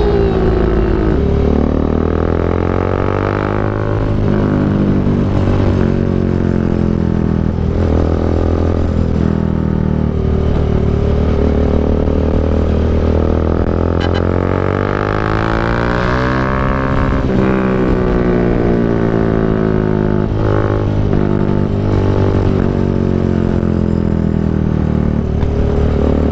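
Bajaj Dominar 400's single-cylinder engine running through an SC Project aftermarket exhaust while riding. The engine note drops briefly at first, climbs steadily as the bike accelerates, then falls away again as it slows.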